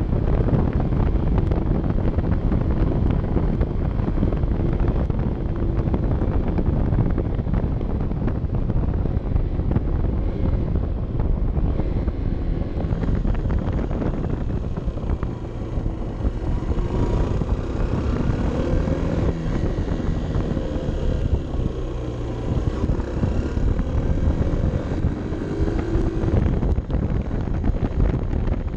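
Honda CB 125 F's small single-cylinder four-stroke engine running on the move, its pitch rising and falling with the throttle, under heavy wind buffeting on the helmet-mounted microphone.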